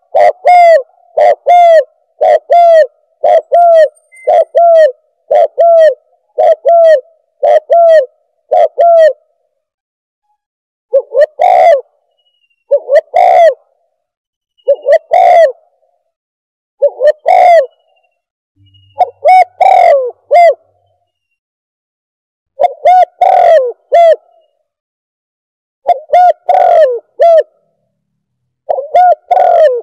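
Spotted dove (tekukur) cooing, played as a loud bird-caller recording used as a hunting lure. It opens with a quick run of short repeated coos, then after a brief pause gives fuller multi-note coo phrases about every two seconds.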